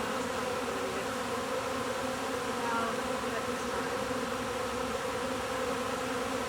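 A swarm of honeybees buzzing in the air, a steady dense drone of many bees together.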